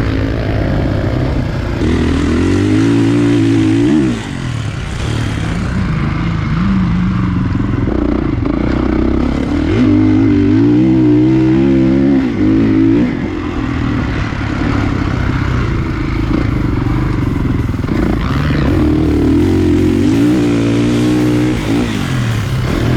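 Kawasaki KX450 four-stroke single-cylinder motocross bike engine being ridden hard, revving up and dropping off again and again as the throttle is opened and shut; the pitch climbs and falls about three times.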